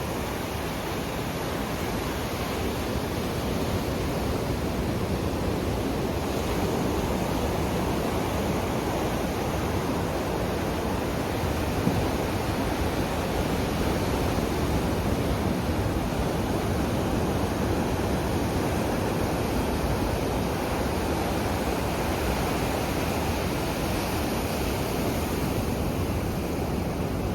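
Sea surf and wind making a steady, even rush of noise, the waves washing in without let-up. One brief tick a little before the middle.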